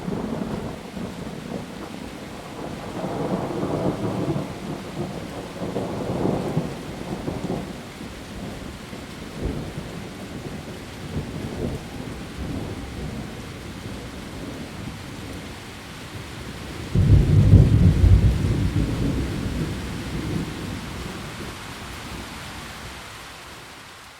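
Heavy rain falling steadily, with thunder rumbling in swells during the first third and a sudden, louder thunderclap about two-thirds of the way through that rolls away over several seconds.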